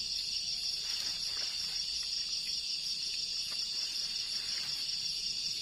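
Steady, high-pitched chorus of night insects such as crickets, with a few faint clicks.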